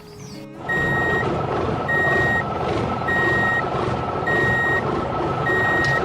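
A vehicle's reversing alarm beeps steadily, about one beep every second and a quarter, over a running engine; it starts after a short gap about half a second in.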